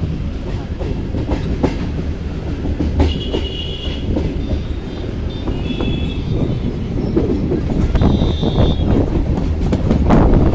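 Local passenger train running along the track, heard from on board: a steady rumble with wheels clacking over rail joints, growing louder near the end.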